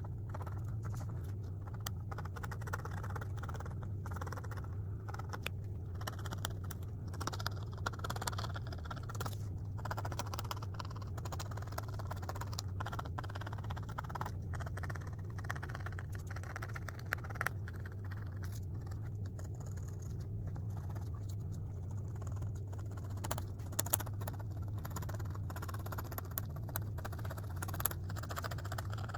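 Irregular scratching and clicking of a drawing toy being worked as a picture is drawn, over a steady low hum.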